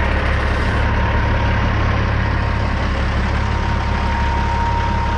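Dump truck's diesel engine running steadily, a deep rumble with a thin steady whine above it.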